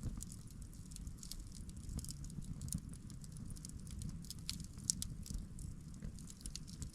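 Wood campfire crackling, with many small irregular pops and snaps over a low steady rumble.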